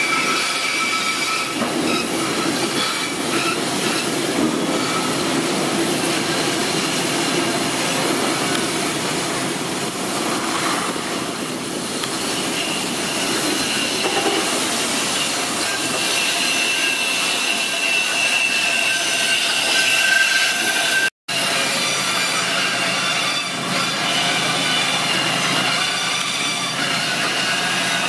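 Loaded freight wagons rolling past on a curving track, their steel wheels squealing against the rails in drawn-out high tones over a steady rumble. The sound breaks off for a split second about three-quarters of the way through.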